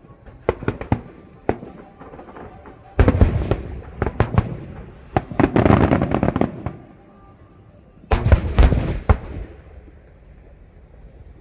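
Aerial fireworks bursting: a few sharp bangs in the first second and a half, then dense volleys of bangs and crackle about three seconds in, again around five to six and a half seconds, and again about eight seconds in.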